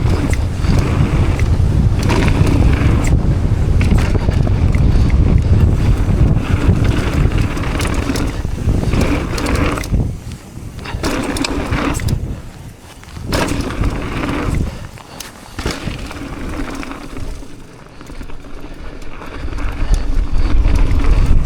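Mountain bike riding a rough trail: tyres and bike rattling and knocking over the ground under heavy wind rumble on the camera microphone, easing for a few seconds in the middle before building again.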